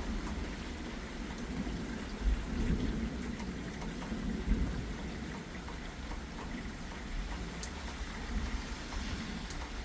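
Steady light rain falling, under low rumbles of distant thunder that swell a few times: the tail end of a passing thunderstorm.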